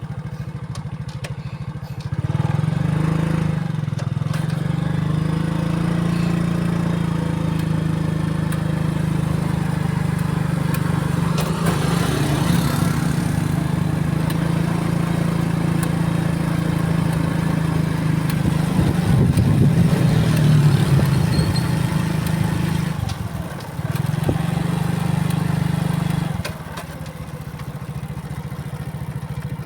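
Motorcycle engine running steadily while riding, getting louder about two seconds in and easing off near the end.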